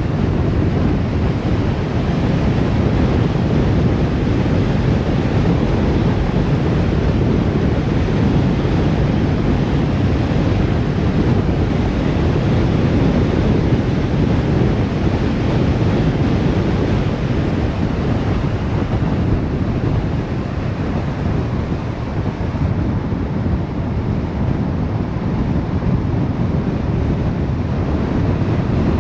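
Steady road and wind noise from a car driving along at speed, a low rushing sound with no speech or music.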